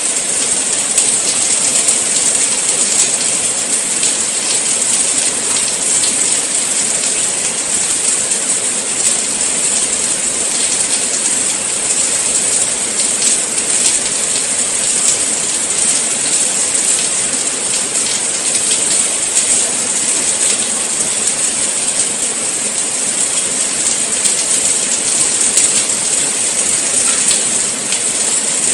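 Steady rain falling, an even high hiss with faint drops pattering through it.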